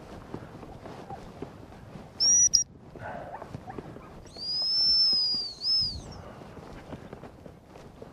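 A handler's dog training whistle blown in the field: a short toot about two seconds in, then a long blast a couple of seconds later that wavers slightly and ends with a brief extra toot.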